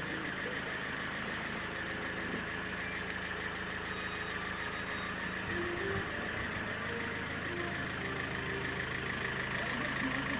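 Fiat 1.9 JTD common-rail four-cylinder turbodiesel engine running steadily at an even speed.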